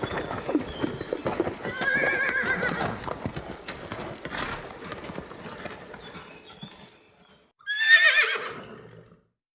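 Horse whinnying twice: a softer call about two seconds in, then a loud trembling whinny that falls in pitch near the end. Hooves clip-clop throughout the first part and fade away.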